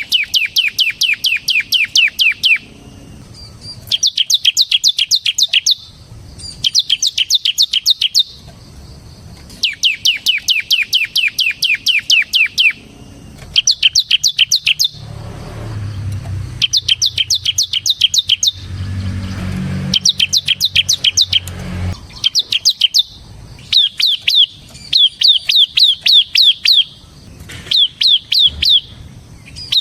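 Bar-winged prinia (ciblek) singing in the fast 'ngebren' style: bursts of rapid, sharp, repeated notes, each burst lasting two to three seconds with short pauses between. A low hum rises in the middle and fades out after a few seconds.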